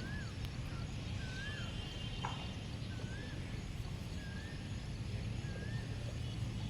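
A bird calling: a short whistled note that rises and falls, repeated about five times at roughly one-second intervals, over a steady low rumble.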